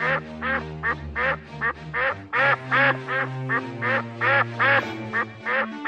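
Ducks quacking over and over, in quick runs of two or three quacks a second, over background music with long held low notes.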